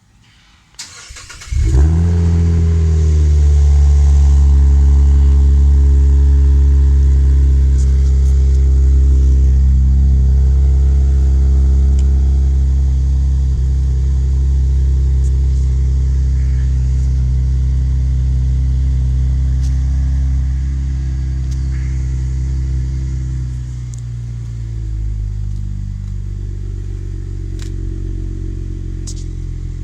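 Cadillac CTS Vsport's 3.6-litre twin-turbo V6, fitted with a Magnaflow exhaust, cold-starting: the starter cranks briefly about a second in and the engine catches with a short flare. It then holds a high, steady cold-start fast idle, which drops to a lower, quieter idle about 24 seconds in.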